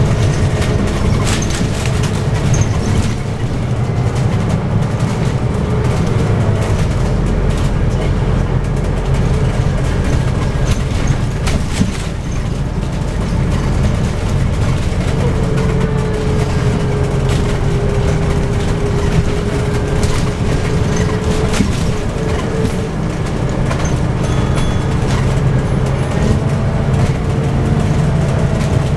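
Scania OC09 9.0-litre biogas engine and ZF Ecolife six-speed automatic gearbox of a double-decker bus in motion between stops, a steady low engine sound with a gearbox whine that rises and falls as the bus changes speed. Short rattles and clicks come and go throughout.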